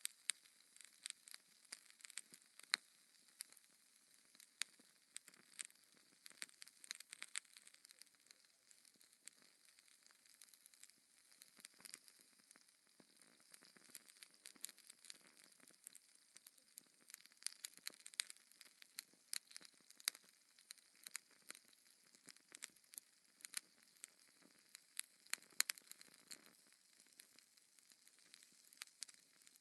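Wood fire in a fireplace crackling and popping, with frequent sharp irregular snaps over a soft hiss of burning.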